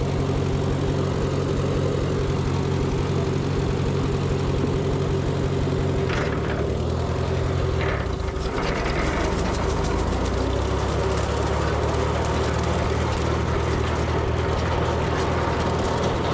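Farm tractor engine running steadily under load, driving a PTO rotary brush hog mower. About six seconds in the engine note changes and briefly sags as the load shifts, then settles again.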